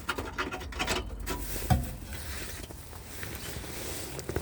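Scattered light clicks and taps, then a sharper knock before the middle and soft rubbing afterwards: hand work on a loose exhaust heat shield under the car as it is fastened back in place.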